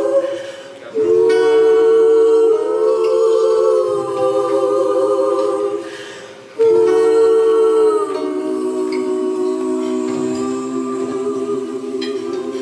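Three women's voices singing long held notes in close harmony, in two drawn-out phrases. The first starts about a second in, the second about six and a half seconds in, and in the second the lower voices step down into a sustained closing chord.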